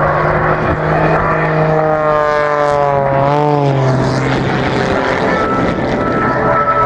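Propeller aircraft engine running loudly as the aircraft flies past, its steady note bending in pitch about three seconds in.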